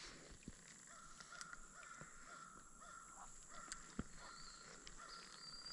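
Faint bird calls: a quick run of short, repeated notes through the first half, over near silence.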